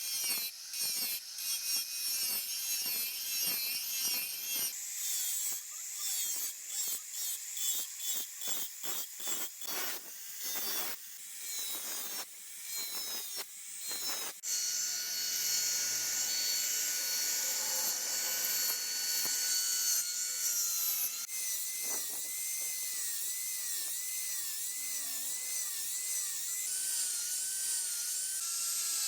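Handheld grinder with an abrasive wheel working a steel sword blade. For about the first half there are rapid, broken grinding strokes, then it settles into a steadier high-pitched whine whose pitch wavers.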